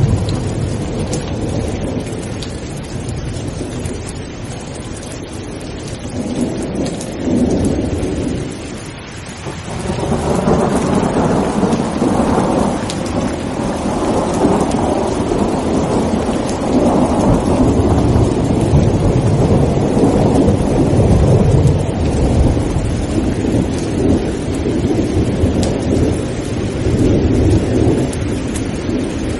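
Rain falling steadily with rolling thunder. A rumble swells a few seconds in and eases briefly, then a long roll of thunder builds about a third of the way in and rumbles on in several swells before fading near the end.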